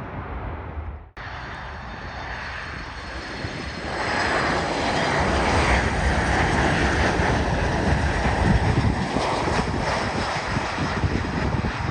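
Landing jet airliner passing close by: a loud rushing engine noise that swells about four seconds in and stays loud, with a high whine above it. A sudden break about a second in, where the recording cuts.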